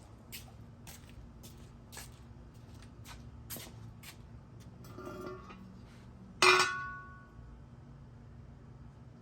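Scattered light clicks, then one loud metallic clank that rings briefly and dies away, about six and a half seconds in. No engine is running.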